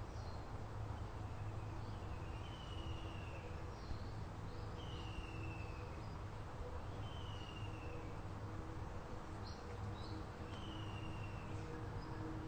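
A bird calling over and over: a short, slightly falling whistle about every two seconds, with brief higher chirps in between, over a steady low hum.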